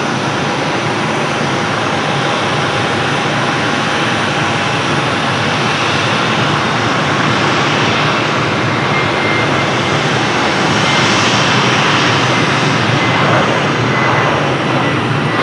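Jet airliner's engines running, a loud steady rush with a thin whine over it; the whine moves higher and the noise swells a little after the middle.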